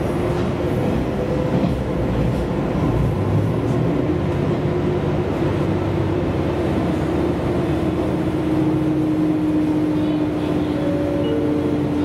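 Diesel railcar running at speed, heard from inside the car: a steady rumble of engine and wheels on rail, with a whine that sinks slightly in pitch over the second half.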